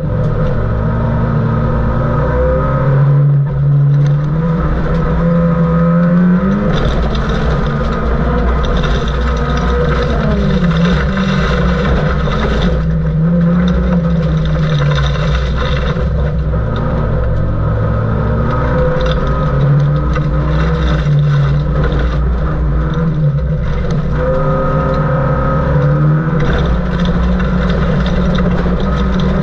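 Saab 900 race car's engine, heard from inside the stripped cabin under hard driving. It revs up and falls back again and again as the driver works through the gears.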